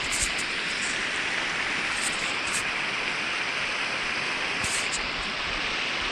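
Fast-flowing river water rushing steadily, with a few brief high ticks over it.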